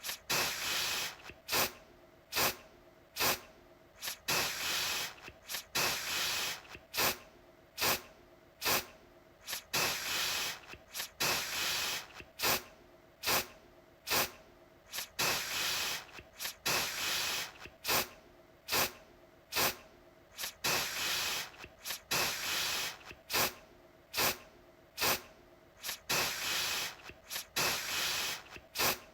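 Aerosol deodorant can spraying in a long series of separate bursts, one or two each second. Quick short puffs alternate with longer hissing sprays of about a second.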